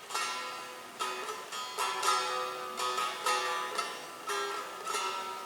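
A plucked string instrument playing a melody of single plucked notes, each one ringing on briefly: the instrumental opening of a folk song, before the voice comes in.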